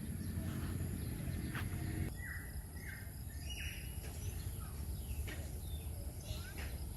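Birds chirping, with three short falling calls about two to three seconds in, over a low rumble that drops away about two seconds in.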